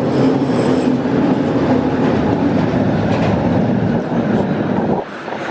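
A train running past with a steady rumble and a low hum, which stops abruptly near the end.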